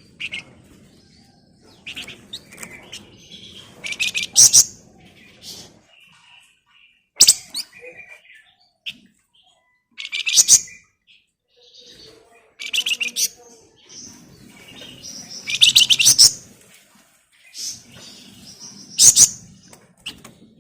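Songbird traded in Indonesia as 'flamboyan' singing loud, dense, high-pitched chattering trills ('ngebren', 'nyerecet'), in bursts every two to three seconds.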